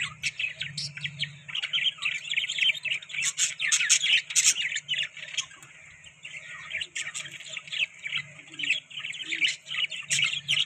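A flock of budgerigars chirping and warbling in quick, overlapping notes, with a brief thinner lull about halfway through.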